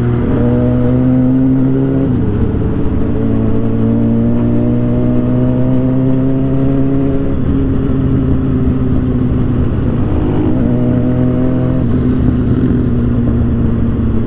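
Suzuki GSX-R750's inline-four engine running under load through an aftermarket Orion exhaust, its pitch climbing slowly and dropping briefly about two, seven and ten seconds in.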